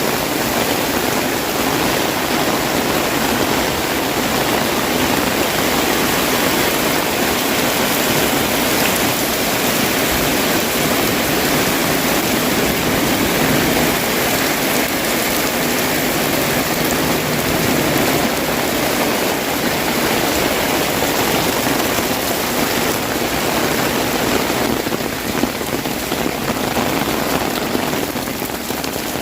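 Heavy rain falling steadily, with the drops hitting the fabric of an umbrella overhead in a dense, continuous patter. It eases slightly near the end.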